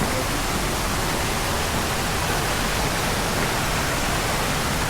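Steady rushing of water, an even hiss with no breaks or changes.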